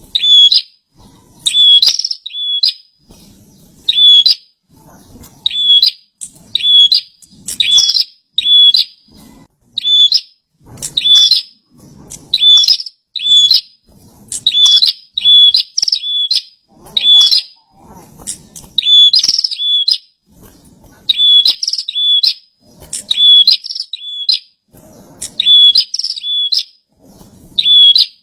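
Prenjak (a prinia songbird) singing vigorously: loud, sharp, high chirps in short phrases repeated about once a second.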